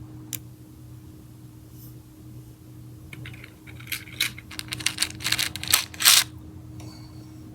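Small plastic slime charms clicking and rattling as they are handled and dropped: a single click at the start, then a quick run of clatters from about three seconds in, loudest near the end.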